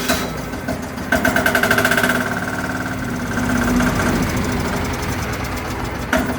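Diesel engine of a converted KMZ Dnipro motorcycle running at its first start, with a rapid, even knocking clatter. It runs louder for about a second shortly after the start.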